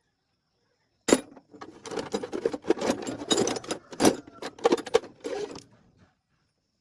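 Rattling and clinking, like metal objects being handled: a sharp knock about a second in, then about five seconds of rapid clicks and clatter that stops abruptly.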